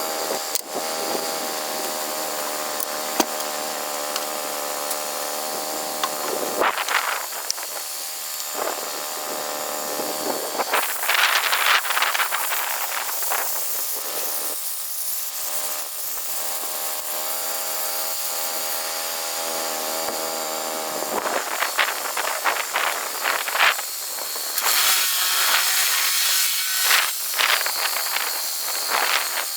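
Power saw cutting wood: an engine runs steadily, with noisy cutting bursts a few times, longest near the end.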